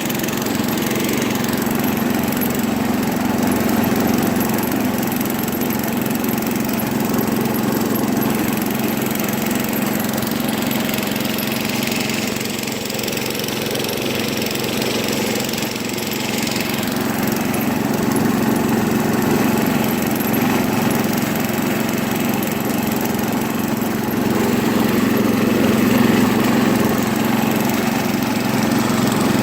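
1973 International Harvester Cub Cadet 86 garden tractor's single-cylinder engine running steadily as the tractor drives along, a constant drone that swells a little near the end.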